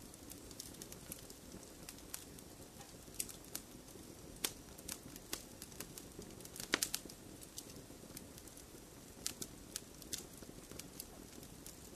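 Wood fire crackling: irregular sharp pops and snaps over a soft, steady rush of flame, with a quick cluster of louder pops a little past the middle.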